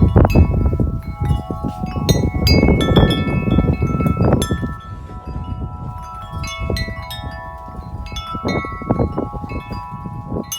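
A Corinthian Bells 36-inch wind chime ringing in strong wind: its tubes are struck again and again, and their overlapping tones ring on and fade slowly. Wind buffets the microphone with a heavy low rumble through the first half, then eases.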